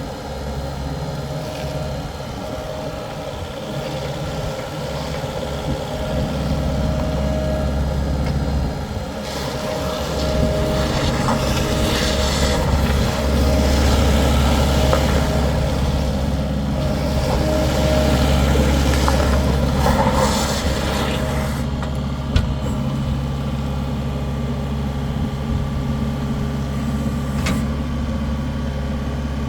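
2020 Case SV185B skid steer loader's diesel engine running steadily. About nine seconds in it grows louder, with added hiss and clatter, until about 21 seconds, then settles back to a steadier, quieter run.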